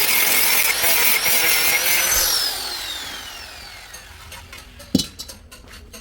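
Electric power tool running loud with a high whine, switched off about two seconds in, its whine falling steadily as it spins down. A single sharp knock near the end.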